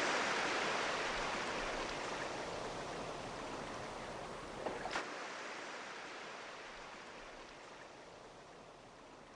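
Ocean surf: a wave washing up the shore with a broad hiss that fades gradually as the water recedes, with a few faint clicks about halfway through.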